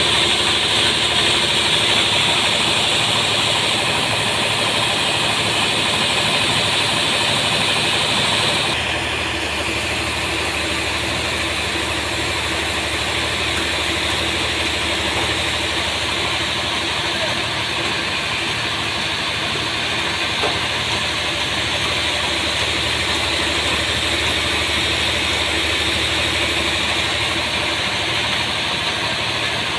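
Sawmill machinery running steadily, with a loud, higher hiss that drops away suddenly about nine seconds in, leaving the machine running at a slightly lower level.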